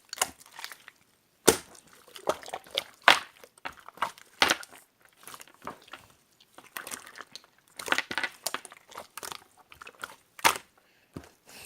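Clear blue slime being pressed and stretched by hand, giving irregular sticky clicks and crackly pops in short clusters with brief gaps between them.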